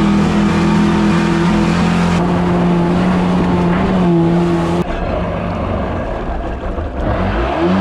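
Stand-up jet ski's two-stroke engine running steadily just after catching again, with a rise in revs near the end.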